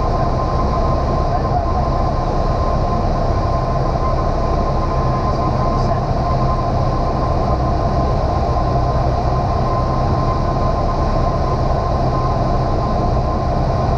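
Single-engine light aircraft's piston engine and propeller running at a steady power setting in flight, heard as a constant cabin drone with a thin steady whine above it.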